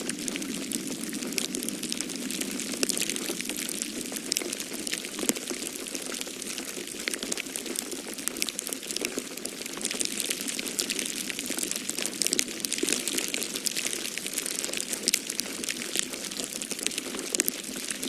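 Wood fire in a fireplace crackling, with many small sharp pops and snaps coming irregularly over a steady low rushing noise.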